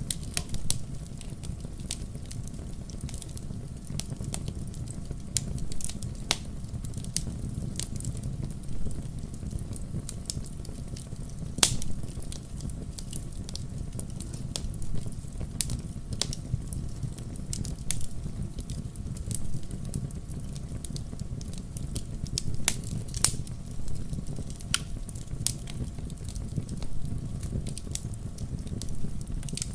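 Wood fire in a fireplace crackling, with sharp pops scattered irregularly over a steady low rumble; the loudest pop comes about twelve seconds in.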